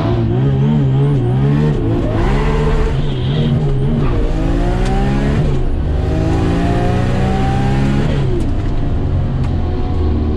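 Car engine accelerating hard up through the gears, its pitch climbing and then dropping at each shift, about two, three and six seconds in. After about eight seconds the engine note falls away and settles lower: the run is aborted after the car is locked out of gears.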